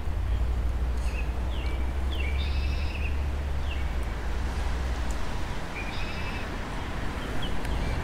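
Small birds calling: several short downward-sliding whistles and two buzzy trills, about two and a half and six seconds in, over a low rumble that eases off about five seconds in.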